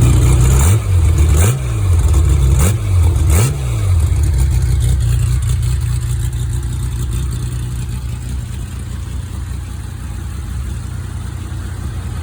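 Engine idling, blipped four times in quick succession in the first few seconds, each rev rising and falling back. It then settles into a steady idle.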